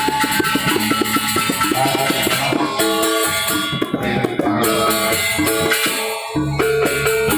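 Balinese gamelan gong ensemble playing an instrumental tabuh: bronze metallophones and gongs with drums and cymbals in a fast, dense run of strokes.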